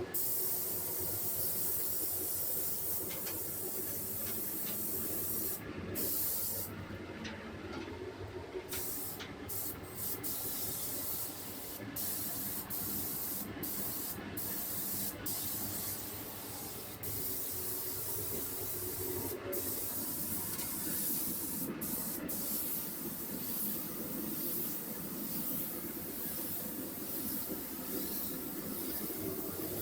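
Air-driven paint spray gun hissing, released for short moments several times in the middle stretch and then running steadily.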